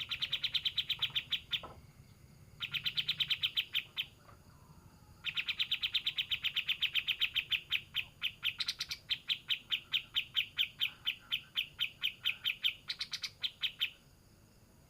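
Kapas tembak (pied triller) singing a fast rattling song of rapid, evenly repeated high notes, about seven a second, in three runs. The first two are short and the last lasts about eight seconds: the full-speed 'racing' song that keepers prize.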